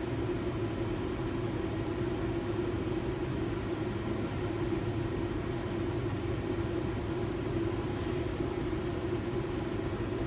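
A steady low mechanical hum, even throughout, with no knocks or clicks.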